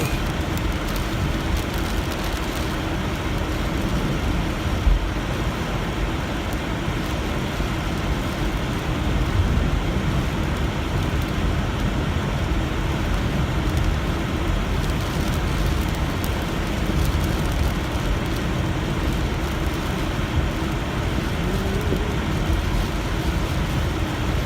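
Car driving on wet, flooded roads in heavy rain, heard from inside the cabin: steady road and tyre noise mixed with rain on the car.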